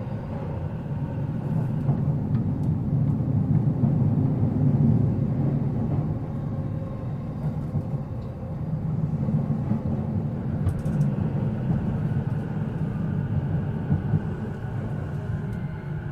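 E233 series 7000 subseries electric train running: a continuous rumble of wheels and running gear that swells about five seconds in, eases, then builds again, with faint steady tones above it in the second half.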